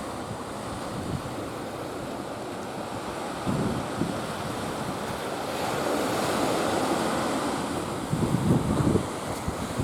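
Ocean surf washing and breaking, swelling louder about halfway through, with strong wind buffeting the microphone in gusts near the end.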